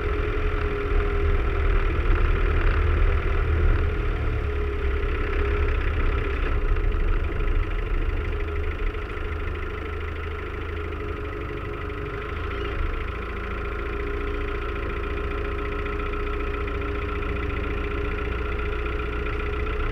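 Land Rover Defender 90's engine running steadily at low speed, a low rumble with a steady whine over it, heard from outside on the vehicle's wing. It is a little louder for the first several seconds, then eases and holds even.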